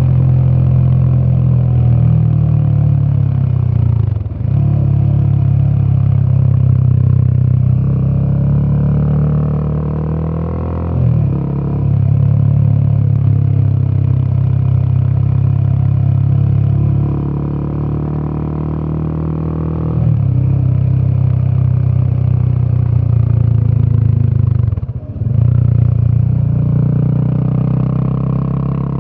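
Royal Enfield Himalayan 450's single-cylinder Sherpa engine running under load through its exhaust on the move, with a deep, bassy note. Its pitch drops sharply for a moment about four seconds in and again near the end, and it eases and builds between.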